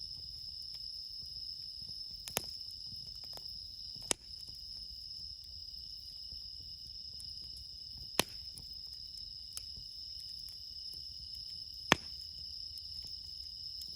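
Crickets singing in a steady, high-pitched chorus, with four sharp pops from burning firewood in a campfire.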